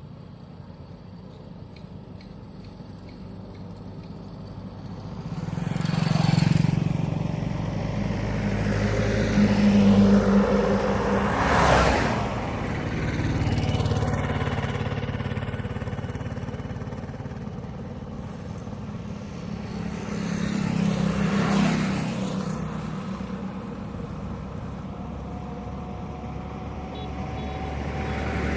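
Road traffic on a two-lane highway. A low engine drone runs steadily underneath while several vehicles pass close by, each swelling up and fading away; the loudest pass comes about ten to twelve seconds in.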